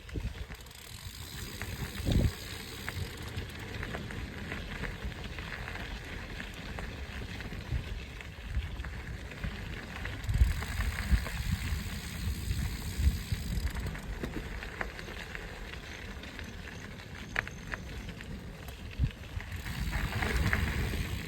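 Mountain bike rolling along a dirt trail: steady tyre noise and a low, uneven rumble, with scattered knocks and rattles over bumps.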